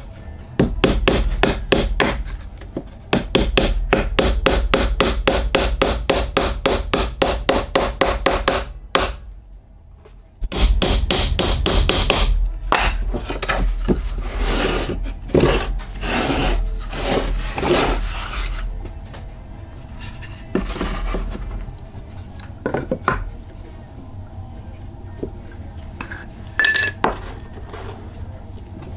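Pallet wood being worked by hand with a rasping, rubbing tool in quick, even back-and-forth strokes, about four a second. The strokes stop briefly near nine seconds, resume less regularly, and give way to a few scattered knocks in the second half.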